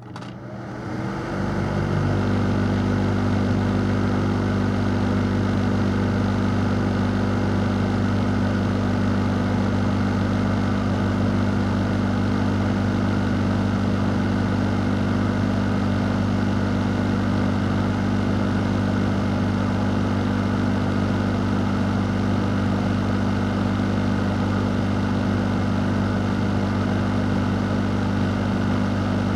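Fan running with a steady low hum under an even rushing hiss; it builds over the first couple of seconds, then holds level without change.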